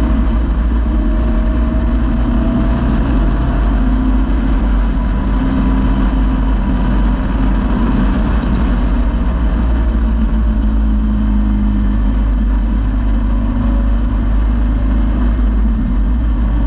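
Caterham Seven's engine running at a steady cruise, its pitch drifting only slightly, under wind and road noise in the open cockpit.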